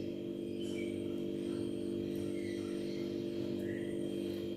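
A steady hum, even in level throughout, with a few faint short chirps above it.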